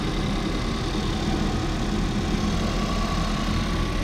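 The 1.6 L EcoBoost engine of a 2015 Ford Transit Connect idling with a steady low hum, heard from the open engine bay.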